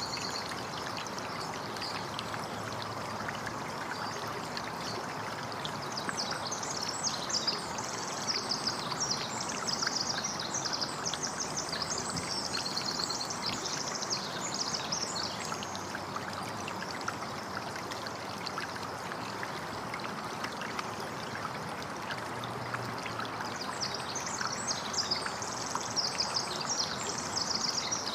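Steady running, trickling water, with birds chirping and twittering in rapid high bursts over it about a quarter of the way in and again near the end.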